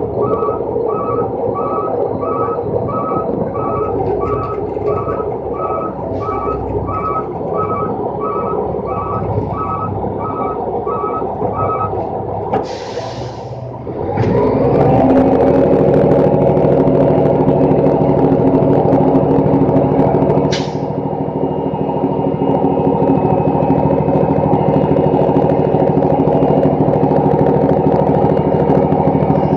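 Rolloff garbage truck's diesel engine running while its reversing alarm beeps steadily for the first twelve seconds or so. The beeping stops, a burst of air-brake hiss follows, then the engine revs up and holds a higher, steady speed, with another short air hiss about twenty seconds in.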